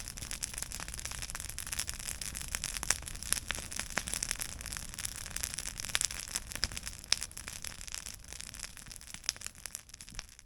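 Wood campfire crackling, with frequent sharp pops over a steady hiss, fading out near the end.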